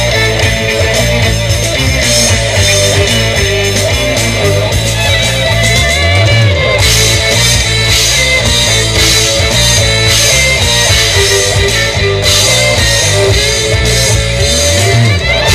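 Instrumental break of a rock song: guitar over bass and a drum kit, with no vocals.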